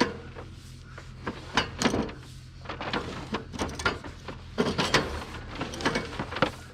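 Irregular knocks, clunks and scraping over a steady low hum.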